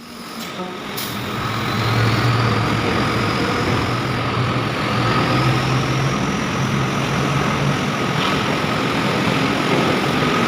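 Heavy truck engine running steadily. It swells up over the first two seconds and then holds at a constant level.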